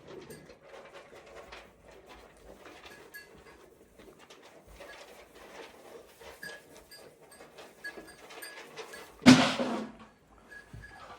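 Sheep in a pen: faint shuffling and rustling, then one loud bleat about nine seconds in.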